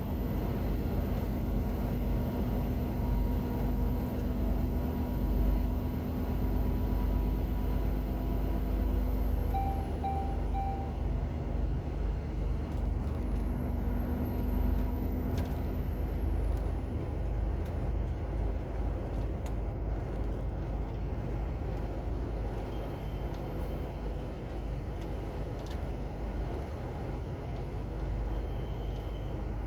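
Heavy truck's diesel engine running, heard from inside the cab, with steady low rumble and road noise. There are three short beeps about a third of the way in.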